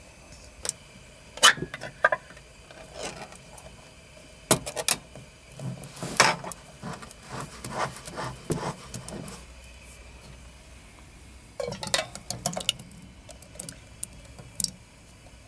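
Scattered clicks, knocks and rustling of objects being handled, coming in bunches with short pauses between.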